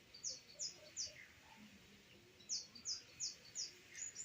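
A small bird chirping: short, high, quick notes that each drop in pitch, a run of three near the start and a run of four about halfway through.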